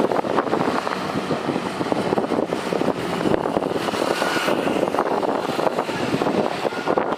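Jet airliner engine noise: a loud, steady rushing sound with a faint whine running through it, and wind buffeting the microphone.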